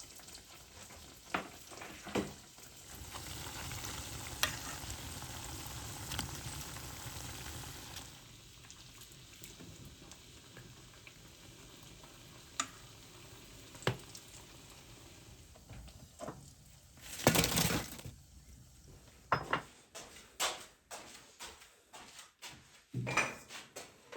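Donut dough frying in hot oil: a steady sizzle that swells for a few seconds and then settles. It is broken by utensil clicks, a louder rush about a second long near the middle, and a run of clicks and knocks toward the end.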